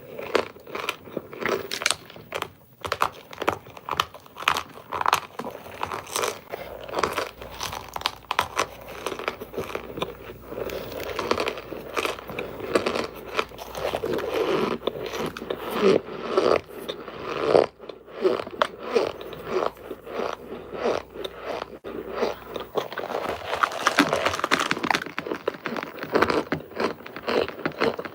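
Hard baked cornstarch bricks being bitten and chewed: a continuous, irregular run of powdery crunches, several a second.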